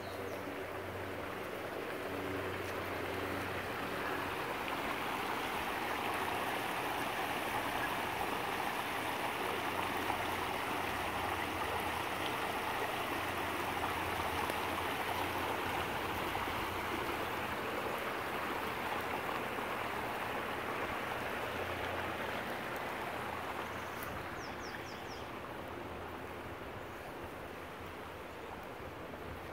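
Stream water rushing steadily. The rush slowly swells and then eases off near the end.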